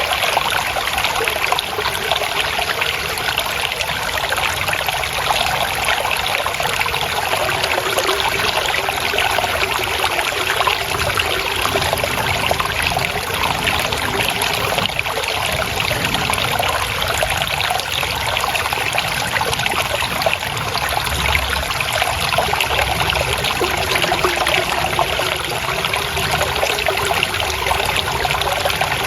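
Flowing water trickling steadily, a constant babbling wash with no breaks.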